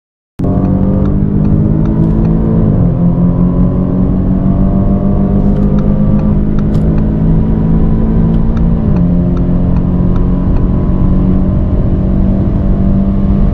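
Turbocharged four-cylinder car engine under full-throttle acceleration at high speed, heard from inside the cabin. It starts suddenly about half a second in and its pitch climbs slowly, dropping sharply at two upshifts, about two and a half seconds in and again about nine seconds in.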